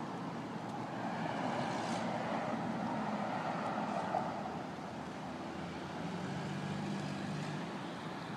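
Steady motor-vehicle noise: a rush of road and engine sound that swells between about one and five seconds in, with a low engine hum later on.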